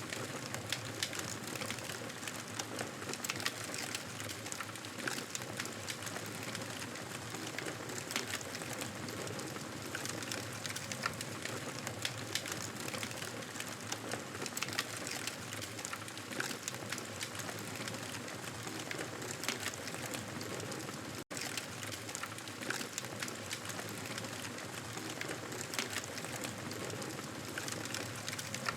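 Campfire burning with a steady crackle and many small pops. The sound cuts out for an instant about 21 seconds in.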